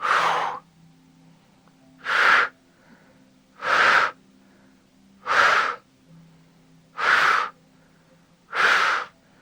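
A person's sharp, forceful breaths during a held exercise effort: six of them at a steady pace, about one every second and a half.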